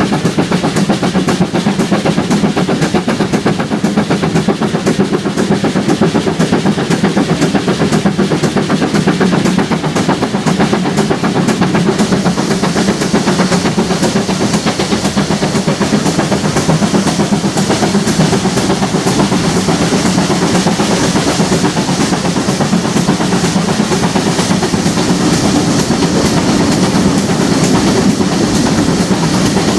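Heritage railway train running along the line: a steady loud rumble with the clickety-clack of wheels over the rails.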